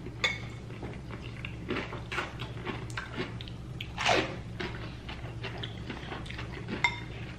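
People chewing and crunching salad, with a few short clinks of cutlery against dishes, over a steady low hum.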